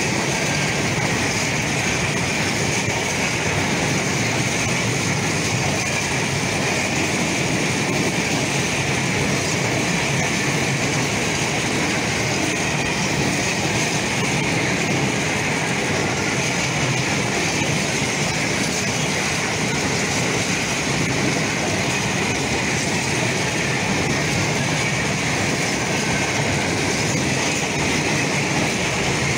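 A long freight train of open coal wagons rolling past at close range: steady noise of wheels on the rails.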